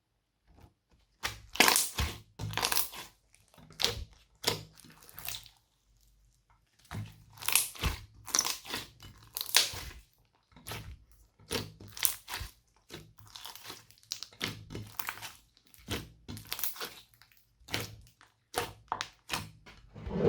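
Slime being squeezed and kneaded by hand, giving irregular runs of sharp clicks and pops, with short pauses between handfuls.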